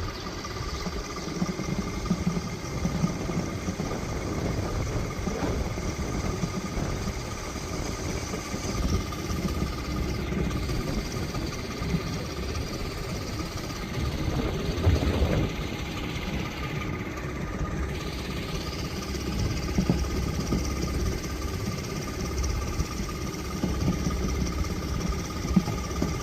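Motorcycle engine running steadily, with a constant whine alongside the low engine sound.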